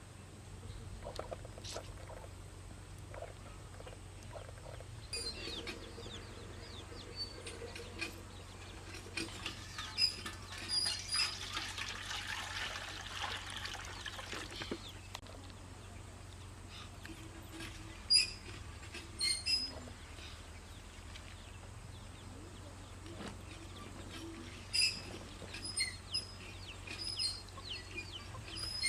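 Chickens clucking and small birds chirping in short calls, over a steady low hum, with a stretch of hissing noise in the middle.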